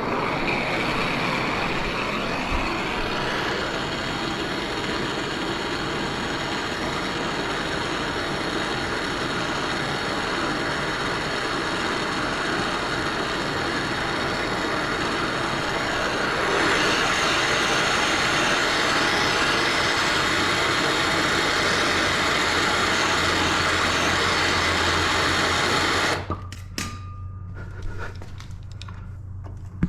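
A power tool's motor running steadily for about 26 seconds. It turns brighter and a little louder about two-thirds of the way through, then stops suddenly.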